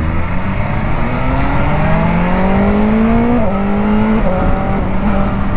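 Motorcycle engine accelerating hard with its pitch climbing, then upshifting twice, with sharp drops in pitch about three and a half and four seconds in, before settling to a steady pull. Wind and road noise throughout.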